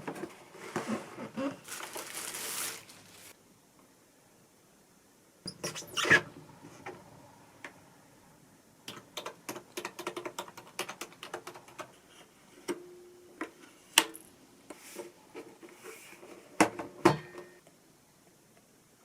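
Small objects being handled in a kitchen: a rustling scrape for about three seconds, then a string of light clicks and knocks, a few of them sharper and louder.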